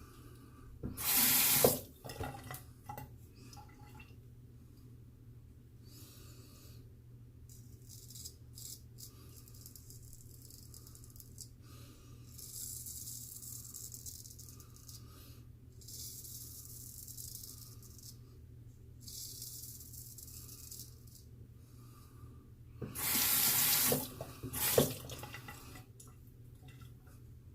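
Bathroom sink tap running in two short spurts, about a second in and again near the end. Between them come quieter stretches of high scratchy hiss, a straight razor scraping through lathered stubble.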